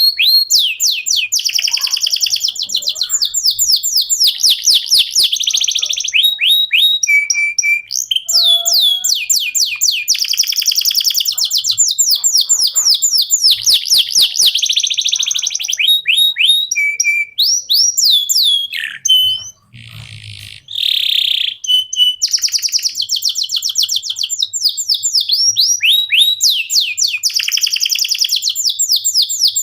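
Domestic canary singing a long, continuous song of fast trills, each trill a run of repeated high downward-sweeping notes, changing from one trill to the next, with a brief break about twenty seconds in.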